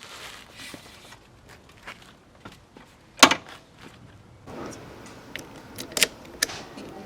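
Scattered handling noises: light clicks and rustling, with one sharp, louder click about three seconds in.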